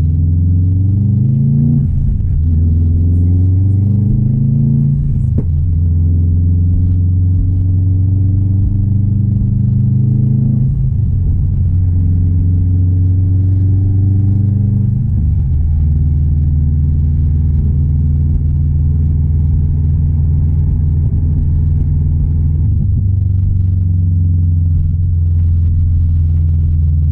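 Built 2016 Subaru WRX STI's turbocharged 2.5-litre flat-four engine pulling through the gears. Its pitch climbs, then drops sharply at upshifts about two, five, eleven and fifteen seconds in, and after that it holds a steady cruise.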